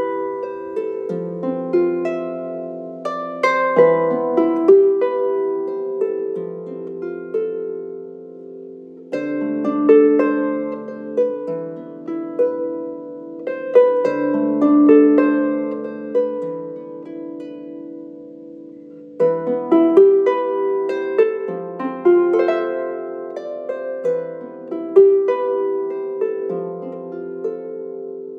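Solo lever harp playing a plucked melody over ringing lower notes. New phrases begin with louder notes about nine and nineteen seconds in.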